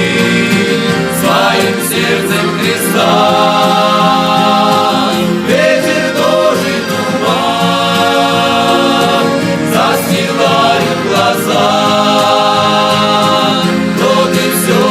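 A religious song sung by several voices in harmony over instrumental accompaniment, in slow phrases of long held notes.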